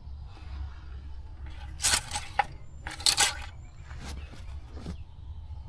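Short scrapes and rubs, two loud ones about two and three seconds in and fainter ones after, from the engine oil dipstick being drawn out, wiped and slid back into its tube to check the level. A steady low hum runs underneath.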